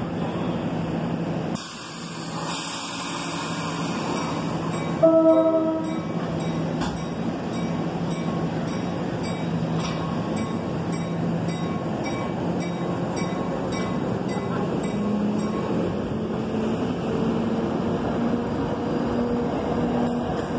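NJ Transit diesel push-pull commuter train rolling past as it leaves the station: a steady rumble of engine and passenger cars, with a short horn toot about five seconds in and regular wheel clicks over the rail joints. Near the end the running hum rises in pitch as the train picks up speed.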